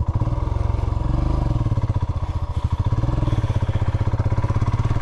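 Royal Enfield Himalayan's single-cylinder engine pulling under way, a fast even run of firing pulses that gets louder just after the start and eases briefly about three seconds in. The sleeve of its new exhaust has come off.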